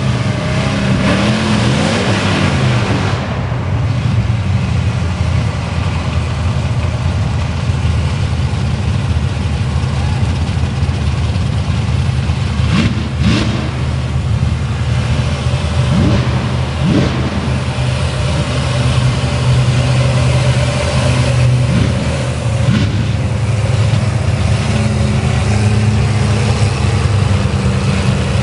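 Mud truck engine running hard under throttle, revving up and down several times.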